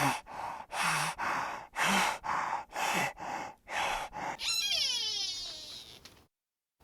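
An animal breathing hard in quick, noisy breaths, about two a second, then a high, wavering call that falls in pitch and cuts off suddenly near the end.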